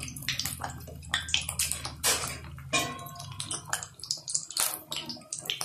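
Vermicelli-coated potato balls deep-frying in hot oil: a steady sizzle with dense crackling, over a steady low hum.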